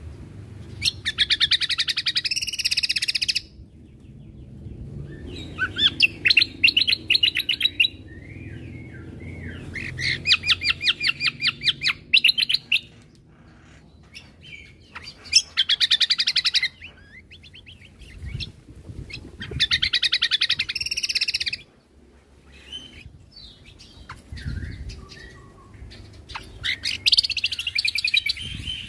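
Cucak kombo (kecial kombo) songbird singing in loud bursts of fast, rapidly repeated trilled notes, each burst about two seconds long, with short pauses between: the rapid 'tembakan' phrases kept as master song for training other birds.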